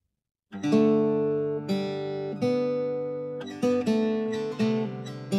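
Acoustic guitar strumming chords as a worship song's intro, starting about half a second in, with each chord left to ring between strokes.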